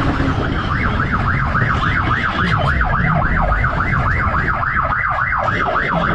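Police siren in rapid yelp mode, its pitch rising and falling about three to four times a second, over a steady low rumble of engine and road or wind noise. The wailing stops near the end.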